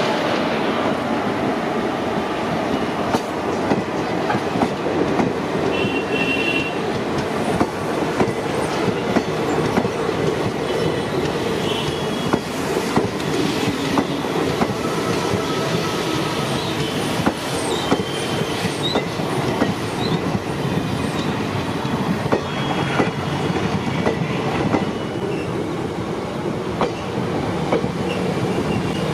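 Passenger train coaches rolling past close by, wheels clattering steadily over the rail joints, with several brief high squeals from the wheels.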